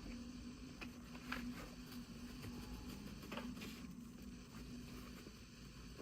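Faint, scattered taps and rustles, about half a dozen, of small plastic toy pieces and packaging being handled during an unboxing, over a steady low hum.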